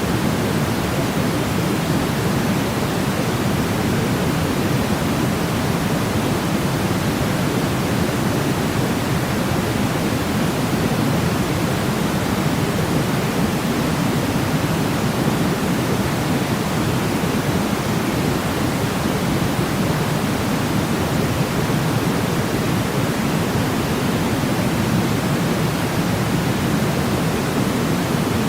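Steady sleep noise of the pink-noise kind: an even, constant rushing hiss weighted toward the low end, with no changes or other sounds.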